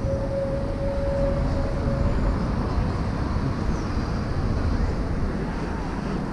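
Motorized bicycle being ridden, its engine and wind rumble on the camera making a steady low noise, with a steady whining tone that stops about two seconds in.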